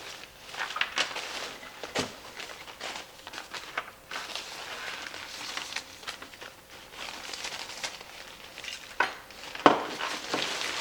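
Thin nylon fabric of a deflated yard inflatable rustling and crinkling as it is handled, with a few sharp knocks: one about two seconds in and two near the end.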